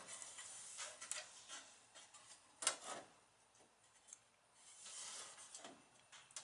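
Sheet steel being worked in a vise to bend a patch piece: faint rubbing and scraping, with one sharp knock about two and a half seconds in and a softer scrape near the end.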